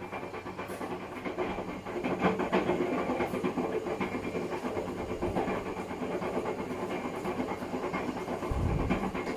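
Hotpoint WMFUG942 front-loading washing machine running, its drum tumbling a box of dog food that rattles and knocks continuously over the machine's steady hum. A deeper thump comes about eight and a half seconds in.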